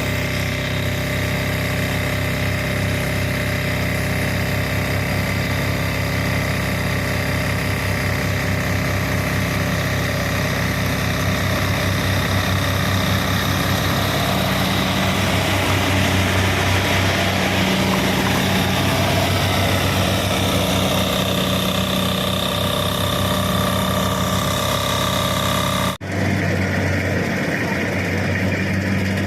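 Kubota rice combine harvester's engine running steadily. Near the end the sound breaks off abruptly and goes straight into a similar engine sound.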